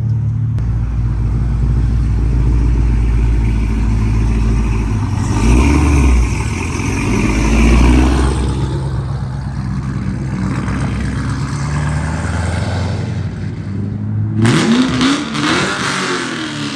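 Car engines running with a steady low idle rumble, with revs rising in pitch about five seconds in and again near the end.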